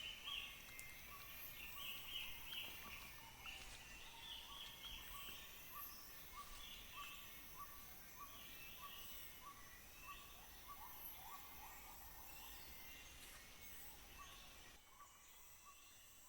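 Faint tropical rainforest ambience. A steady high insect drone runs under a short call repeated about twice a second, with scattered bird-like chirps over it. The chorus thins out near the end.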